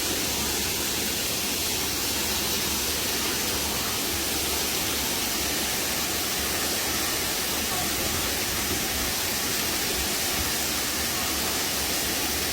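Steady rush of river water cascading over rocks, an even hiss with no breaks.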